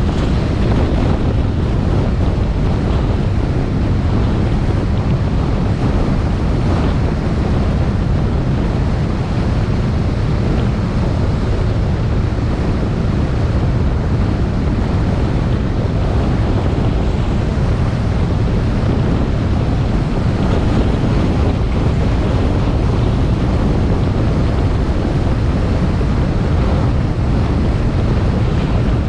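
Wind buffeting a GoPro's microphone on a moving motorbike: a steady, deep rush, with the bike's engine and road noise underneath.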